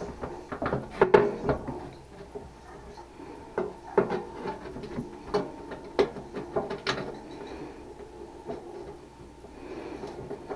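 Irregular knocks, clicks and rubbing of tools and parts being handled at close range, a few louder knocks about a second in and between four and seven seconds.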